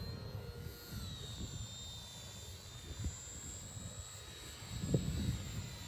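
Radio-controlled model aeroplane's motor and propeller whining steadily, the pitch wavering slightly as it flies, with wind rumbling on the microphone.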